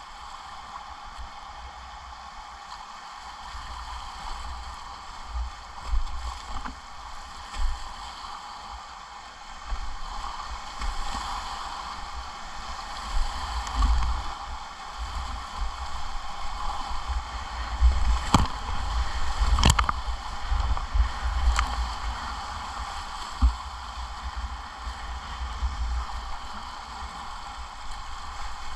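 Whitewater rapids rushing steadily around a kayak, growing louder after the first third, with irregular low rumbling thumps and a few sharp knocks past the middle.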